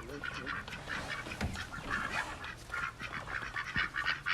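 Domestic ducks quacking, many short calls in quick succession from several birds.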